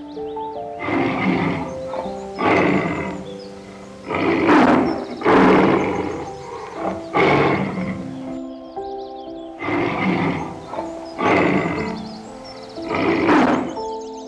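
An animal giving about eight loud, harsh calls, each about half a second long, over background music with a plain stepped melody.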